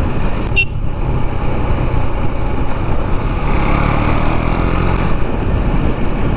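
KTM Duke 390's single-cylinder engine running under way at road speed, a steady low rumble heard from the rider's position. There is a short high blip about half a second in.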